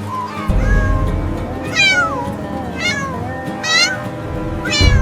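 A cat meowing about four times, each meow falling in pitch: the cries of a cat stuck up a tree. Background music plays underneath.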